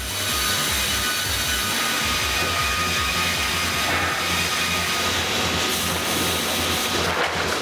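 Log saw line running, a steady high whine with dense noise as the saws cut, over background music with a steady beat.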